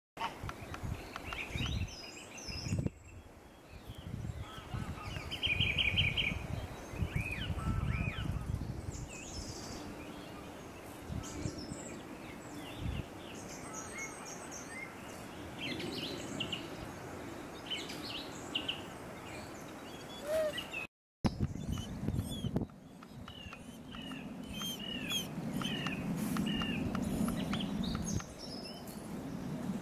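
Several wild birds chirping and calling in short, scattered phrases, over a low rumble; the sound drops out for a moment about two-thirds of the way through.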